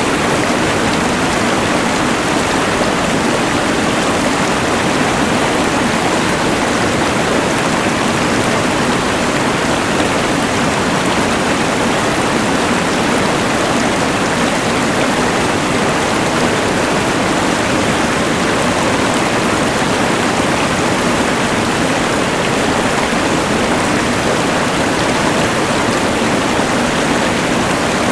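Rushing mountain river mixed with the steady hiss of a LectroFan white noise machine, making an even, unbroken wash of water noise.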